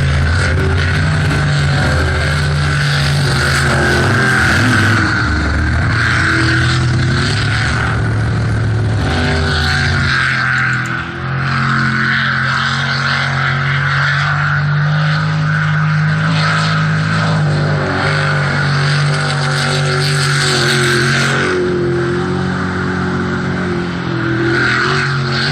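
Jet sprint boat engine running at high revs, its pitch rising and falling as the boat speeds up and eases off; the loudness dips briefly about eleven seconds in.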